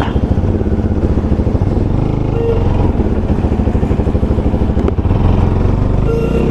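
Motorcycle engine running steadily while riding along the road, its rapid firing pulses heavy in the low end.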